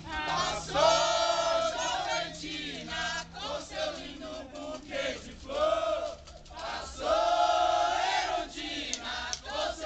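A group of voices singing a maracatu chant together, in long held phrases.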